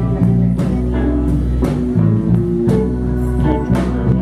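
Live blues band playing an instrumental passage between sung lines: guitar and bass notes over a steady drum beat.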